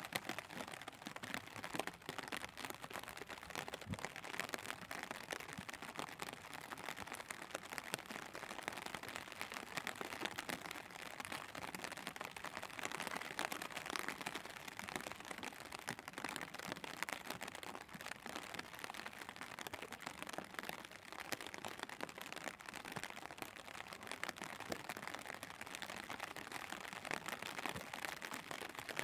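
Steady rain falling on wet pavement: an even hiss made up of many small drop ticks.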